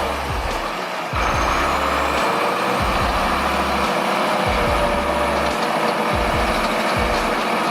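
A heavy vehicle's engine running, with background music and its pulsing bass line underneath.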